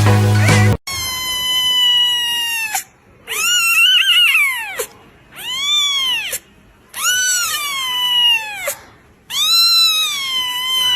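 A domestic cat meowing loudly: five long, drawn-out meows, each rising and then falling in pitch, with short pauses between them. A music track cuts off just before the first meow.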